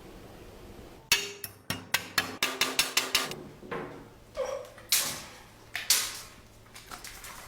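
A run of irregular knocks and taps, hard objects being struck or handled, with two short rushing noises about five and six seconds in.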